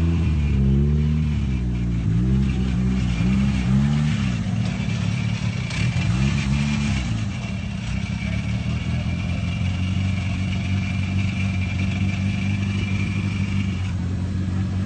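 Big-turbo Mitsubishi Lancer Evolution's turbocharged four-cylinder engine revving up and down several times in quick succession, then settling into a steady run for the second half, with a steady high whine over it that stops near the end.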